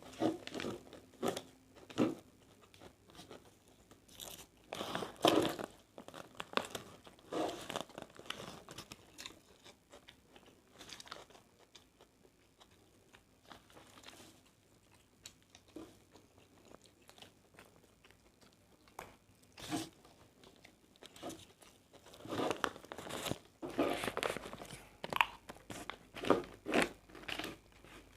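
Close-up sounds of a person eating nasi goreng (Indonesian fried rice): chewing and biting with crunchy bites, coming in irregular bursts, with a quieter stretch about halfway through.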